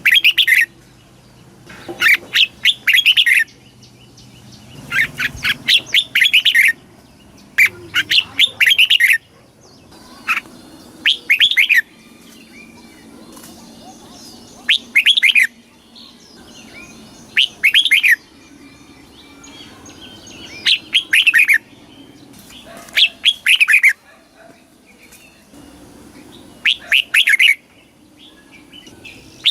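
Red-whiskered bulbul singing: short phrases of several quick notes, repeated every two to three seconds, with fainter chirps between them.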